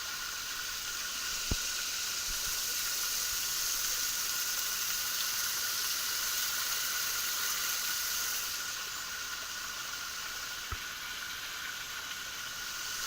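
Small waterfall splashing steadily, a constant hiss of falling water, with a couple of faint clicks.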